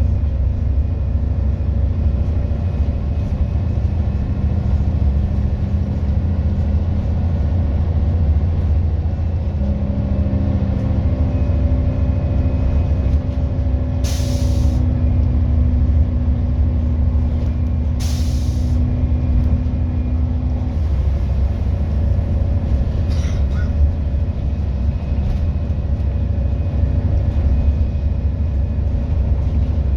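Scania N230UD double-decker bus engine running steadily, its note shifting for several seconds near the middle. Two short hisses of compressed air from the air brakes come about 14 and 18 seconds in.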